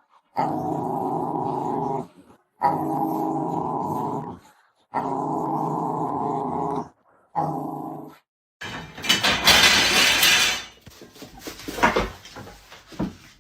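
A dog growling in four long, drawn-out stretches, each about two seconds. Then a loud rushing noise for about two seconds, followed by a few knocks near the end.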